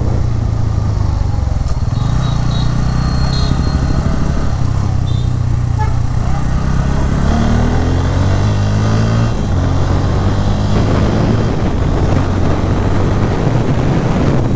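Bajaj Pulsar N160's single-cylinder engine and exhaust heard from the rider's seat while riding. The engine note climbs in pitch for a few seconds, drops abruptly about nine seconds in, then runs on steadily, with wind noise on the microphone.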